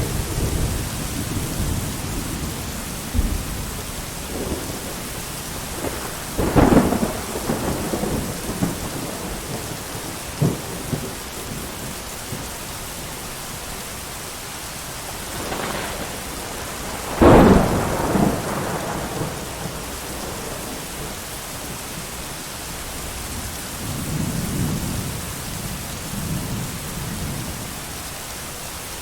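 Thunderstorm: steady heavy rain hiss with thunder, two sharp cracks about a quarter and about three fifths of the way in, each trailing into rumble, and a softer low rumble near the end.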